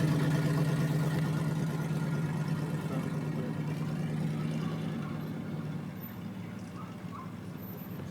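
Car engine and road noise heard from inside the cabin: a steady low hum that fades gradually over the last few seconds.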